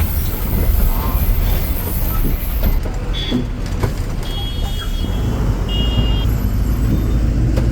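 Heavy truck on the road: a steady low rumble of engine and road noise, with two short high beeping tones about four seconds and six seconds in.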